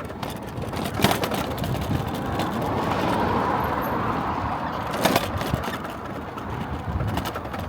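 Car on the move, engine and road noise rumbling steadily and swelling slightly mid-way. There are two sharp knocks, one about a second in and one about five seconds in.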